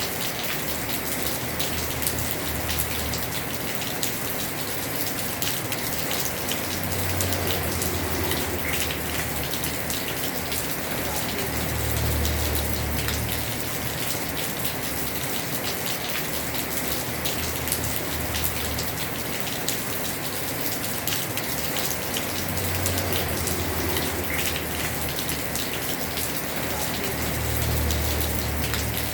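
Heavy rain falling on a house roof: a steady hiss with dense drop patter. A low rumble swells and fades about every five seconds.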